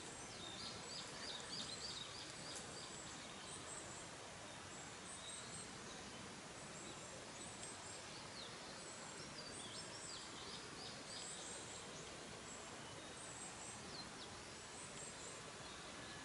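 Small birds chirping over a steady outdoor hiss: a quick run of calls about a second in and another around nine to eleven seconds, with faint high twitters repeating throughout.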